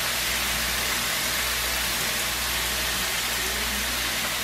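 Chicken pieces sizzling steadily in oil in a deep stir-fry pan over medium-high heat.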